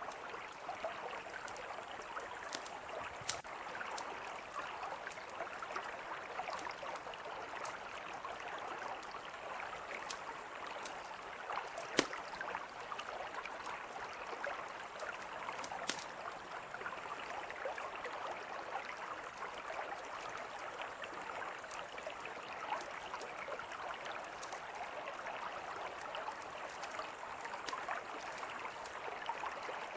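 A mountain river flowing steadily, with the sharp pops and crackles of a campfire scattered over it; the loudest pops come about twelve and sixteen seconds in.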